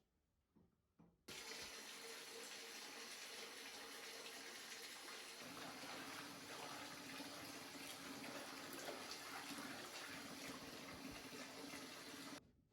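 Water tap turned on about a second in, running steadily, then shut off sharply near the end; about halfway through a low steady hum joins the rush of water.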